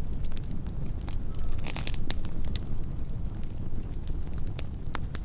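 Campfire crackling, with irregular sharp pops over a steady low rumble of burning wood. A cricket chirps high and briefly about once a second.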